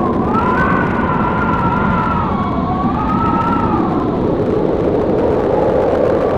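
Blizzard wind rushing steadily, with a howling whistle that wavers up and down in pitch and fades out a little past halfway.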